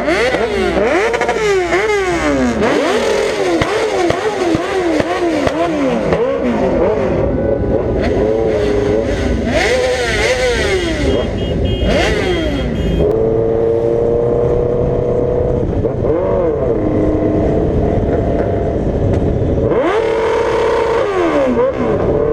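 Sport motorcycles' inline-four engines revving hard, the pitch climbing and dropping over and over as they shift through the gears, with several bikes overlapping. About halfway through they settle into a steadier drone over a constant low rumble, then rev up again near the end.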